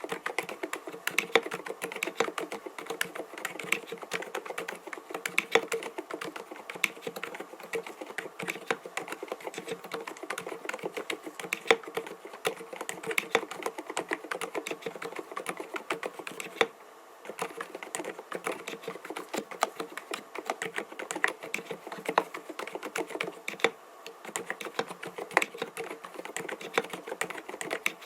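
Continuous fast typing on an mStone Groove T 87A mechanical keyboard with silent (dampened) Milky linear switches, 45 g: soft, muted keystrokes with a low clack, pausing briefly twice.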